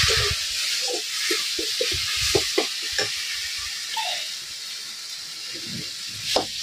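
Tomato and spice masala sizzling as it fries in a steel kadhai over a wood fire, with a metal ladle scraping and stirring it in quick strokes for the first three seconds. The sizzle then dies down, and there is a sharp crack near the end.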